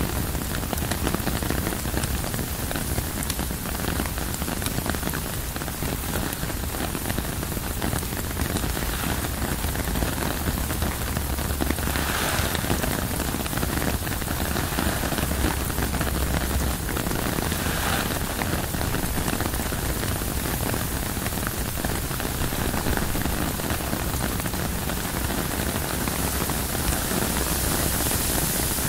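Steady rain falling on tent fabric, a dense spray of fine drops with two brief heavier swells, about twelve seconds in and again some six seconds later.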